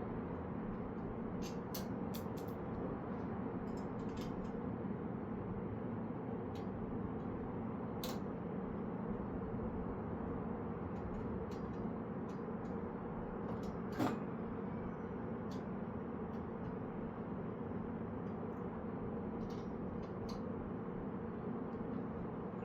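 Steady background hum with scattered light clicks and taps as bicycle parts are handled during assembly, and one sharper knock about fourteen seconds in.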